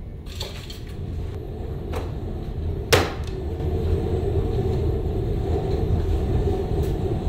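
Single-serve capsule espresso machine running, its pump giving a steady low buzz that grows louder, with one sharp click about three seconds in.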